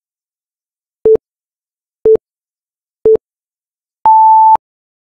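Countdown timer beeping: three short beeps a second apart, then one longer, higher beep that marks time up.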